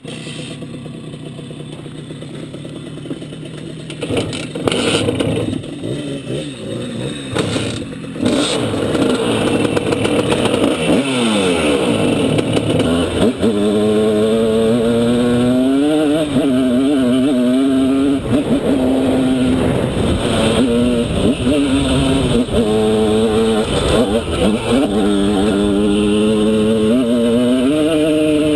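Simson S51 enduro's two-stroke single-cylinder engine, lightly tuned, running at a lower note at first, then louder from about 8 seconds in, its pitch rising and falling repeatedly as it is ridden and revved.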